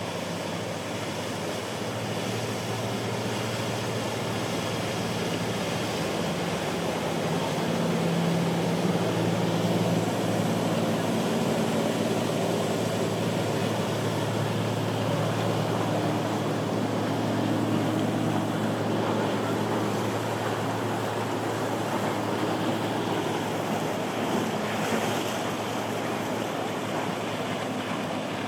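Waves and wind noise with a low, steady drone of boat engines underneath. The engine tone grows a little louder about a third of the way in and shifts in pitch in the middle.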